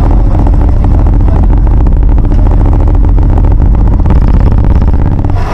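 Sym R1 100 motorcycle engine running steadily and loud, with an even rapid firing pulse.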